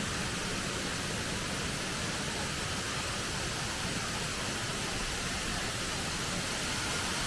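Steady rush of a waterfall cascade, Erawan Falls' second level, falling water making an even, unbroken noise.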